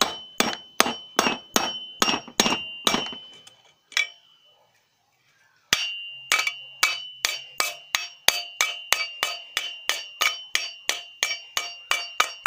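Hammer tapping a new bearing into its seat in a Consul Maré washing machine's transmission. Quick metallic taps come about four a second with a ringing tone, pause for about two seconds after the first few seconds, then resume.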